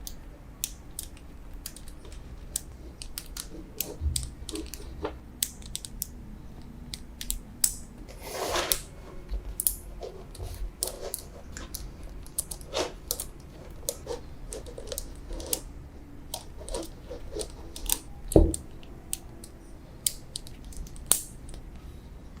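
Small magnetic balls clicking and snapping against each other in irregular sharp ticks as they are set in place one by one, with a short rattle a little past eight seconds in and one louder knock about eighteen seconds in.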